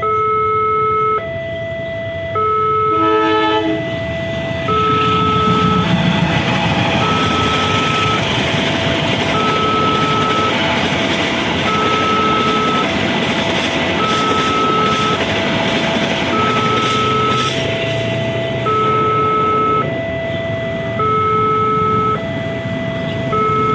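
Railway level-crossing warning alarm sounding a repeating two-tone electronic signal that alternates about once a second. From about three seconds in, a passing train adds a loud rumbling roar under the alarm for some fifteen seconds, then fades while the alarm keeps going.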